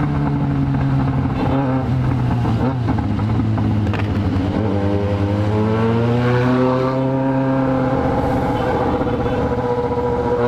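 Yamaha XJ6 inline-four engine running through a 4-into-1 straight-pipe exhaust with no muffler, heard from the rider's seat under steady throttle. Its pitch drops slightly about three seconds in, then climbs a little over the next few seconds and holds.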